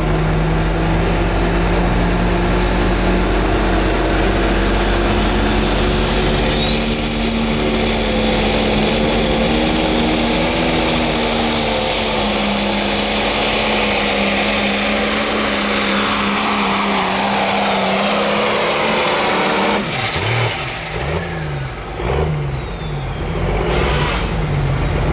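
Turbocharged diesel engine of a 4.1 Pro Stock pulling tractor running hard at full power down the track, with a high turbo whistle rising in pitch over it. About twenty seconds in the engine note drops off suddenly and the level falls, as the run ends.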